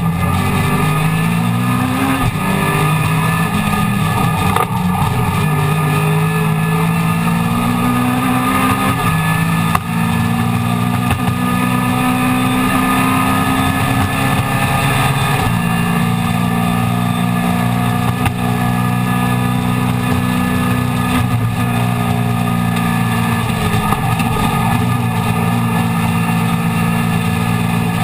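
Mini Miglia race car's A-series engine under hard acceleration, heard from inside the stripped cockpit. Its pitch climbs and drops repeatedly with gear changes and corners over the first half, is held high and steady for several seconds after the middle, and dips briefly about three quarters through.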